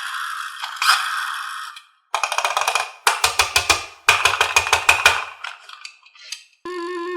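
Cartoon-style sound effects: a couple of noisy swishes, then runs of rapid wood-block-like clicking at about ten clicks a second. A held musical tone comes in near the end.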